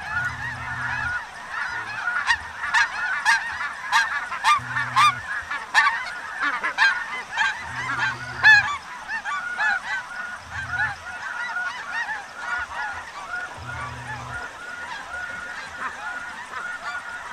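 A large flock of snow geese calling all at once: a dense chorus of short, overlapping high-pitched honks, with a few sharp ticks in the first half.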